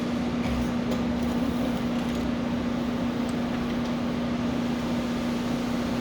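Electric pet clippers running with a steady hum while shaving down a cat's coat.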